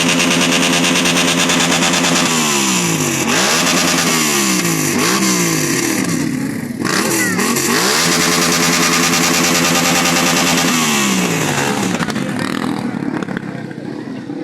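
Motorcycle engine running at high revs, with the throttle blipped down and up several times in the middle, then held high again before dropping off and fading near the end.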